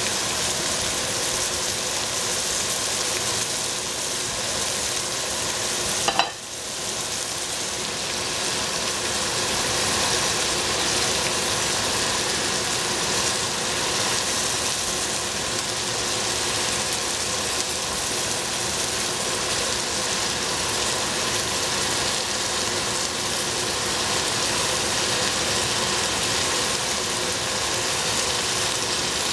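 Green cauliflower sizzling as it fries in a hot pan, a steady hiss. About six seconds in, a short sharp sound is followed by a brief dip in the sizzle.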